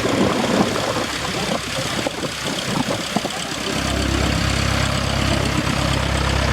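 An engine running, with a steady low hum that sets in about four seconds in and holds.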